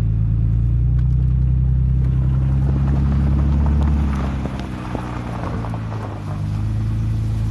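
2004 Mercedes-Benz C320's 3.2-litre V6 running as the car moves slowly along a rough gravel track, with tyres crunching over stones. The engine note drops for a couple of seconds about halfway through, then picks back up.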